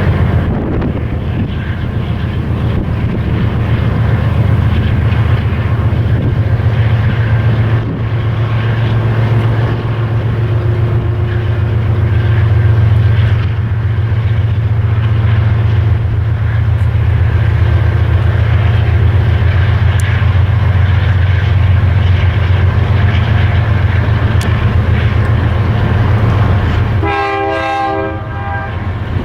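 BNSF freight train passing with a steady low rumble from its diesel locomotives and cars. Near the end, the locomotive's air horn sounds one short blast.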